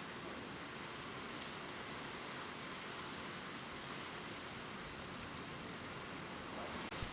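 Gentle rain falling steadily on leaves, an even hiss with a few louder single drops ticking, one near the end.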